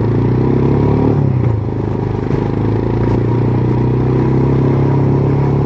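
Yamaha R15 V2's single-cylinder engine running near idle with a clattering rattle, the sound of a loose timing chain whose tensioner has failed. The engine speed dips briefly about a second in, then steadies.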